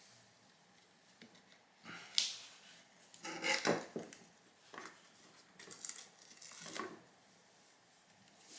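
Small hand tools scraping and clicking against a laptop logic board as parts are taken off it: a handful of short, irregular scrapes and clicks, busiest around the middle.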